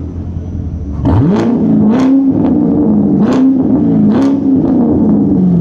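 Chevrolet C7 Corvette Z51's 6.2-litre LT1 V8 running through a muffler-deleted exhaust: idling, then revved sharply about a second in and blipped several times, before the revs fall back toward idle near the end.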